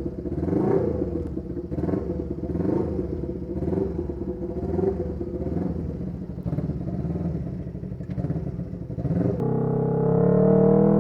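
Honda CB125T's 125 cc parallel-twin engine idling unevenly with a loud aftermarket muffler, just after a cold start on the choke. Near the end the sound cuts abruptly to a smoother drone that slowly rises in pitch.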